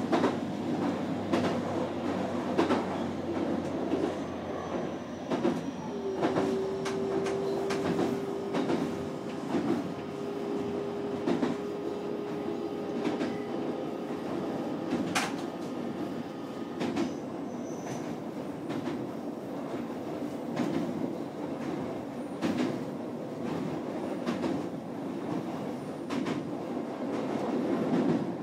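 Electric train running, heard from inside the cab: a steady rumble with repeated sharp clicks and knocks of the wheels over rail joints and points. A single steady tone hums along with it from about six seconds in until about fourteen seconds.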